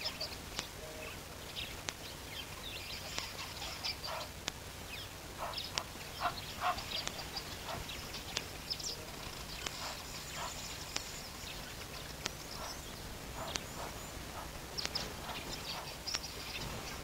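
Scattered short chirps and clicks of birds calling irregularly throughout, over a steady low hum.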